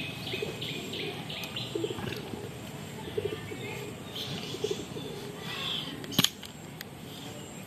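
Birds calling: low coos and some higher chirps, with one sharp click about six seconds in.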